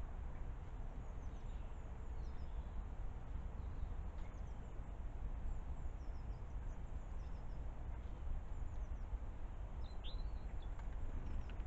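Faint, high chirps of small birds over a steady low background rumble, with one clearer bird call about ten seconds in.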